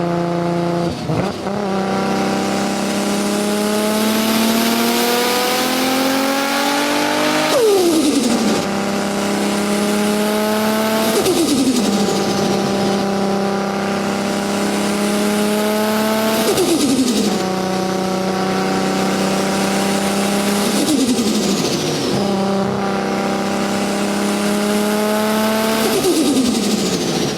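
Sports car accelerating hard through the gears: the engine note climbs steadily in each gear, then drops sharply at each upshift, about every four to five seconds, with a rushing hiss over it.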